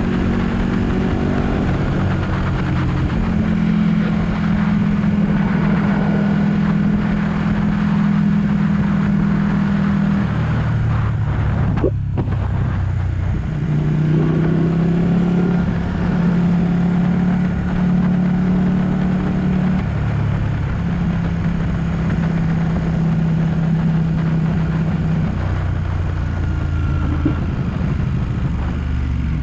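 Ducati 1199 S Panigale's Superquadro L-twin engine under way, holding steady revs with changes in pitch. The note drops about ten seconds in, dips briefly near the middle, then picks back up and holds steady again.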